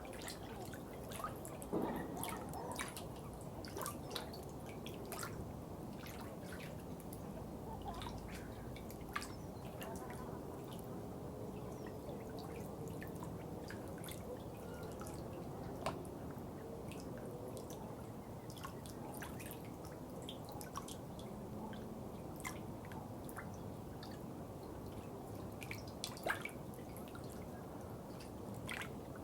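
Water dripping in irregular single drops, some louder than others, over a low steady background of water noise.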